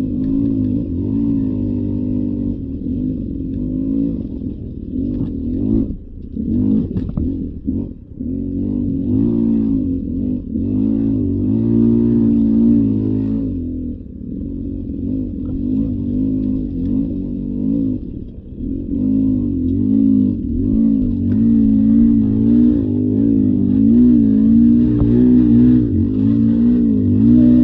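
Beta 300 RR two-stroke enduro dirt bike engine revving up and down as the throttle is worked over trail terrain, with a couple of brief drops off the throttle.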